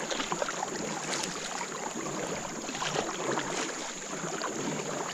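Fast rain-runoff current rushing through a creek: a steady hiss of moving water with small splashes and ticks scattered through it. A thin steady high whine runs underneath.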